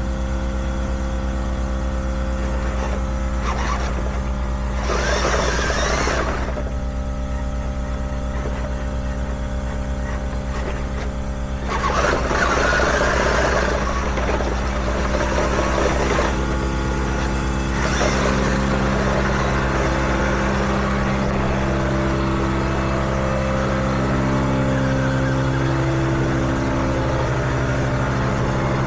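Radio-controlled tracked vehicle running, with a steady motor drone. Louder grinding or rattling noise comes twice, about 5 seconds in and again from about 12 to 16 seconds, and the motor's pitch shifts near the end.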